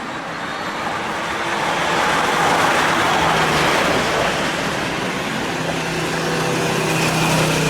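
Motorcycle riding in heavy rain: a loud rush of wind, rain and wet road that swells a couple of seconds in, over the steady hum of the engine, which grows stronger near the end.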